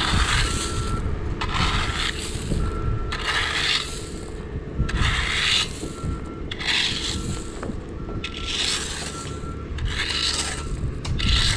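An engine running steadily under a rhythmic scraping sound that repeats about every second and a half.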